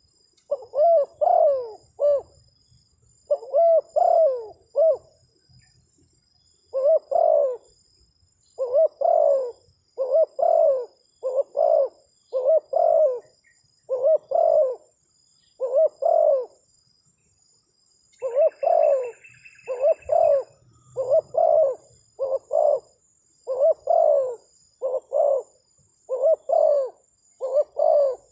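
Spotted dove (terkukur) cooing over and over in short phrases of two or three coos, a phrase every second or so, with a brief pause near the start and another about two-thirds of the way through.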